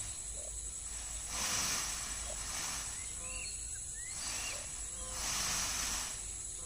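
Countryside insect chorus: a steady high-pitched whine with a hiss that swells and fades three times, and faint short bird chirps over it.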